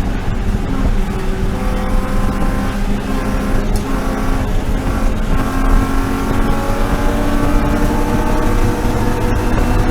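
BMW E36 M3 race car's straight-six engine running hard at racing load. The pitch drops sharply about four seconds in, then climbs steadily as the car accelerates.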